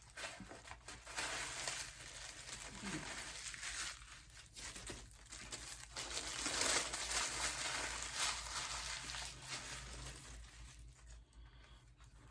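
Packaging being handled: paper and plastic wrapping crinkling and rustling as clothing is unwrapped. The rustling is loudest in the middle and dies down near the end.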